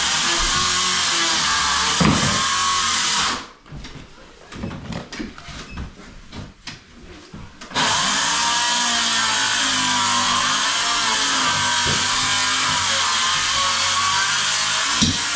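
A power tool motor running under load, its pitch wavering. It cuts out after about three seconds, leaving a few knocks, and runs again for the last seven seconds.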